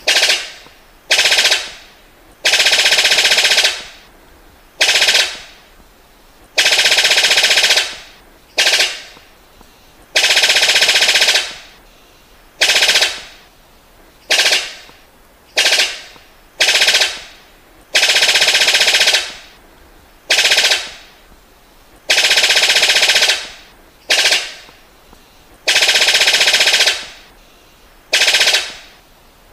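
Brown sicklebill calling: about twenty loud, rapid rattling bursts like machine-gun fire, some brief and some lasting over a second, repeated every second or two, each trailing off in an echo.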